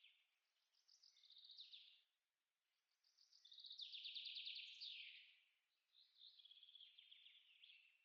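A songbird singing three short phrases, each a rapid run of high repeated notes that ends in a falling slur; the middle phrase is the longest and loudest.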